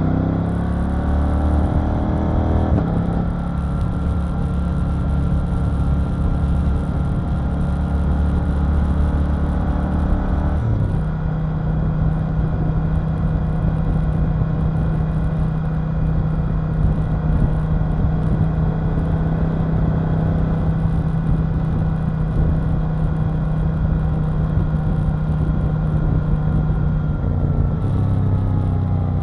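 KTM 890 Duke R's 889 cc parallel-twin engine running under way. Its note rises at the start, then holds fairly steady, changing abruptly about 3 and 11 seconds in and again near the end.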